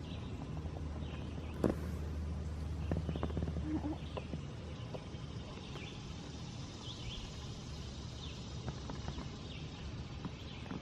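Birds chirping in short calls, with scattered small clicks and knocks, one sharper knock about two seconds in.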